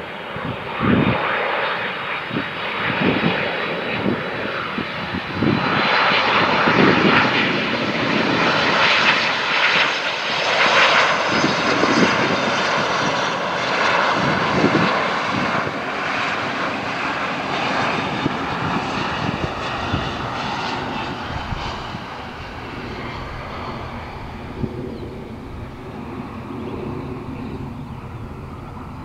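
Airliner engines passing by: a loud rushing noise with a faint high whine that drifts down in pitch, loudest about a third of the way in, then slowly fading away.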